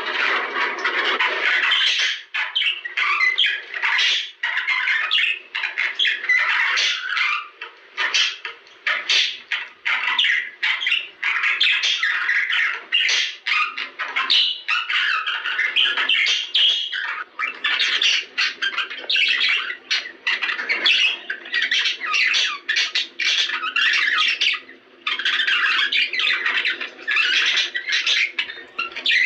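Budgerigars chattering and warbling non-stop, a dense stream of squawks, clicks and chirps. This is the kind of budgie chatter played to pairs to put them in breeding condition.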